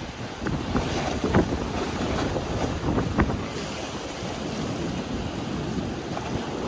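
Strong wind buffeting the microphone over choppy water around a boat, with a few sharp knocks, the loudest about one and a half seconds in and another about three seconds in.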